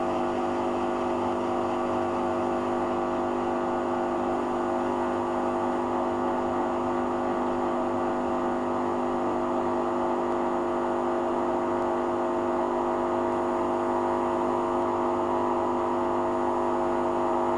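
Hoover Dynamic washing machine running in its rinse cycle: a steady motor hum and whine that holds one pitch throughout.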